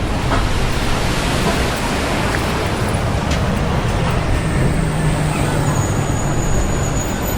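Steady street traffic noise: passing motor vehicles with a low engine hum that grows louder about halfway through.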